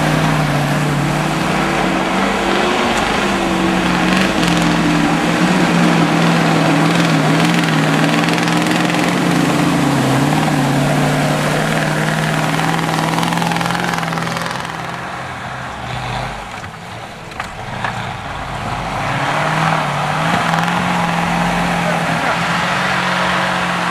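Truck engine running at high, steady revs. It eases off about fourteen seconds in and climbs back a few seconds later.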